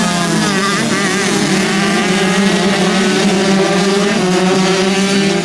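Several motocross bikes' engines running and revving at once, their pitch rising and falling as the riders work the throttle.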